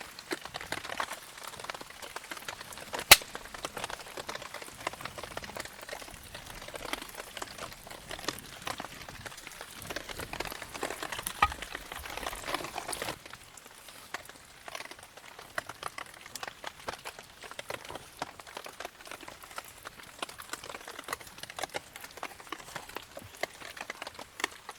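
A wood campfire in the rain: irregular light crackling and ticking over a soft hiss, with one sharp crack about three seconds in. The hiss thins out about halfway through.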